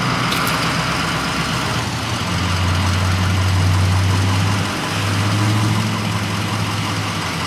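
Vehicle engine running as it drives, heard from inside the cabin: a steady low hum under an even hiss, with a deeper drone that swells twice, each time for about two seconds, in the middle.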